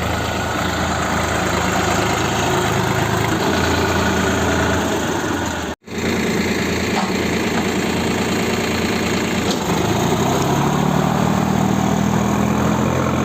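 Tractor diesel engine running steadily. The sound cuts out for an instant about six seconds in, and about ten seconds in the engine note shifts higher.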